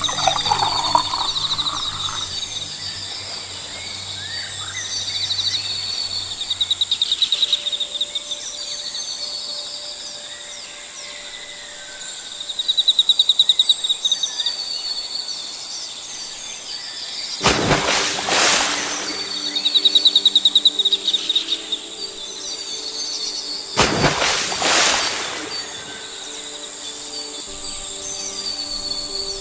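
Jungle ambience: insects trilling steadily in high-pitched, pulsing chirrs, with scattered bird chirps. Two loud, noisy bursts, about six seconds apart, stand out in the second half.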